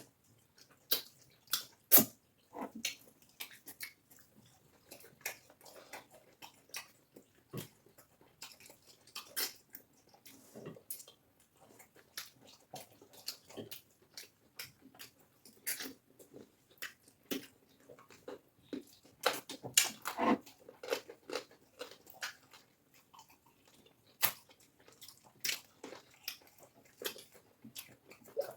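Mouth sounds of people eating cassava fufu and egusi soup: wet chewing with irregular short smacks and clicks.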